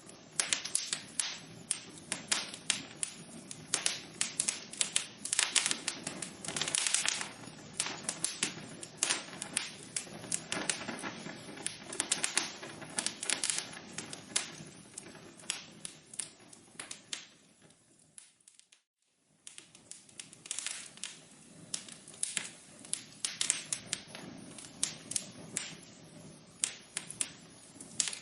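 Wood fire in a fireplace crackling, with dense, irregular sharp pops and snaps over a soft hiss. About two-thirds of the way through, the crackling fades almost to silence for about a second, then comes back.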